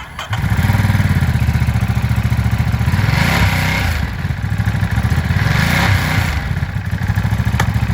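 Ducati Monster Plus 937 cc L-twin engine running with a pulsing idle that comes in about a third of a second in, revved twice in short blips.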